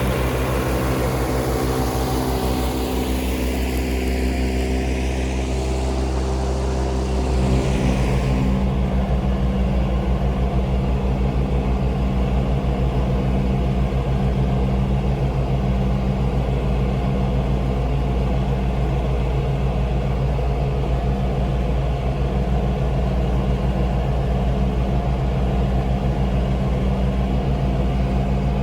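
John Deere 3039R compact diesel tractor running steadily under mowing load with its mid-mount mower deck engaged. A high hiss rises and falls in pitch over the first several seconds and cuts off abruptly about eight seconds in. After that the engine drones on evenly.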